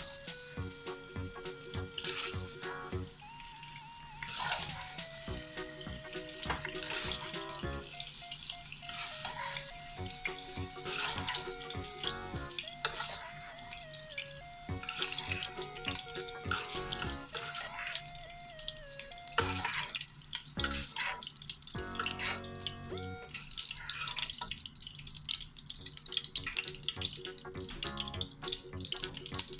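Background music with a simple melody, over carrot and potato pieces sizzling in hot oil in a non-stick pot, with a plastic spoon repeatedly scraping the pan as they are stirred and scooped out.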